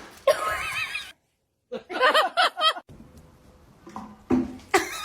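An animal calling twice, each call about a second long with a quavering, up-and-down pitch, followed by a few short, weaker sounds near the end.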